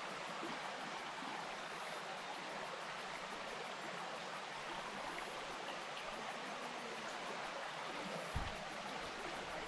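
Small bush stream flowing steadily: an even rush of running water. A brief low thump sounds about eight seconds in.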